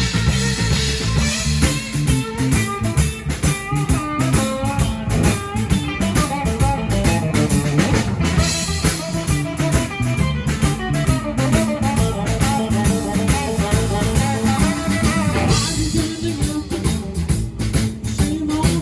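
Blues band playing: guitar over a drum kit, the music continuing without a break.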